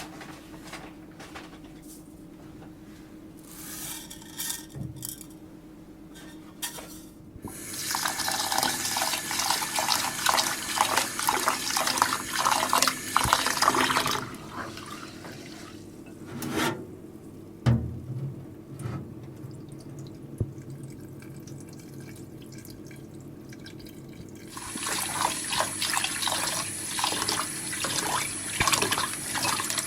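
Water running and splashing into a vessel in two spells, about six and five seconds long, with a few knocks in between.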